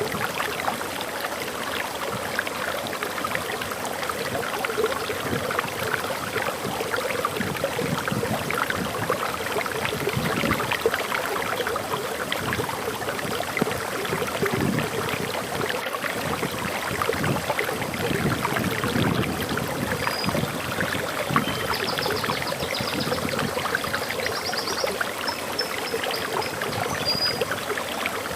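Water pouring over a small waterfall: a steady, splashing rush. A bird gives a few short, high chirps in the second half.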